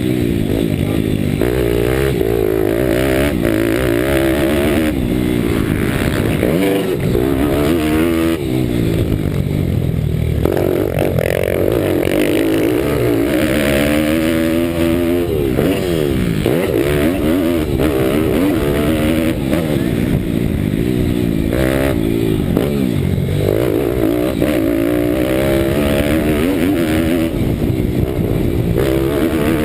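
Bucci Moto pit bike's 190 cc Daytona Anima engine running hard, revving up and falling back over and over as the throttle is opened and closed.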